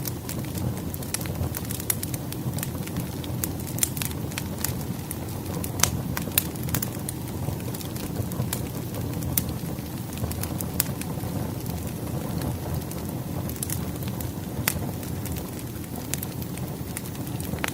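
Burning wood fire: a steady low rumble of flames with frequent, irregular sharp crackles and pops from the logs.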